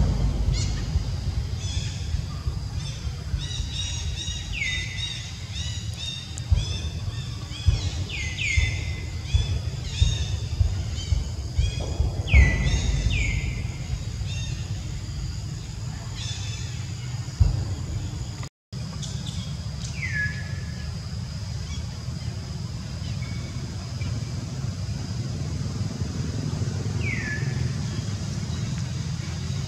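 Forest birds calling: short whistles that fall steeply in pitch and then level off, several close together in the first half and a few spaced out later, over fast repeated chirping and a steady low rumble.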